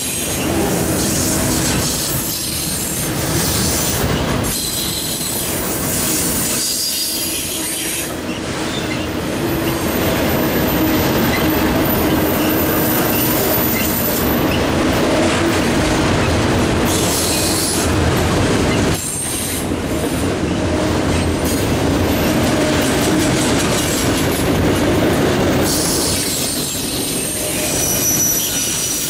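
A long autorack freight train's cars rolling steadily past: steel wheels running on the rails, with squeal from the wheels at times.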